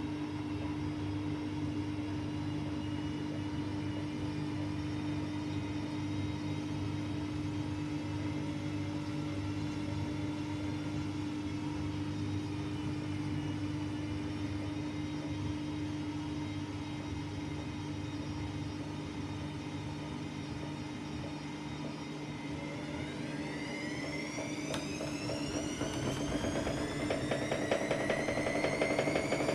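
AEG Lavamat Turbo washer-dryer running with a steady hum and rumble. About three quarters of the way through, a motor whine starts and climbs steadily in pitch, getting louder as the drum speeds up.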